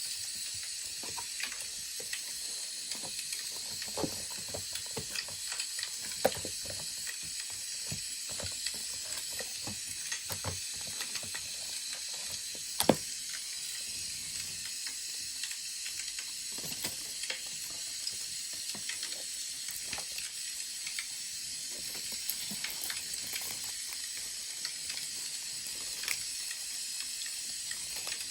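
Wood fire crackling: a steady hiss with frequent irregular small pops, a sharper pop about six seconds in and the loudest about thirteen seconds in.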